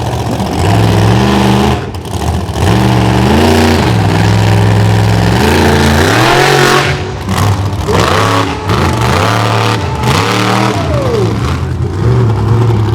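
Monster truck engine revving hard and repeatedly, its pitch climbing and dropping every second or two as the throttle is worked, with one long falling sweep near the end.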